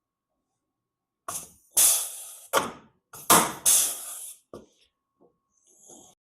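Tools and metal parts being handled at a workbench: a run of about six sharp knocks and clatters in the middle stretch, with a fainter one near the end.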